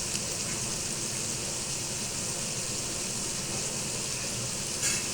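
Chicken and masala sizzling steadily in hot oil in a cooking pot.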